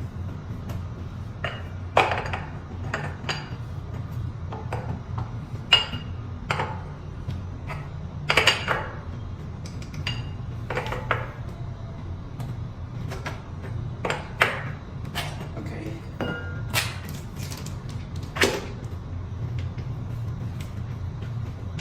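Large open-end wrench clinking against the big headset nuts of an electric scooter's steering column as they are tightened to cure a wobbly handlebar: irregular sharp metal clicks and clinks, some ringing briefly, with the loudest around two, six and eight seconds in. A steady low hum runs underneath.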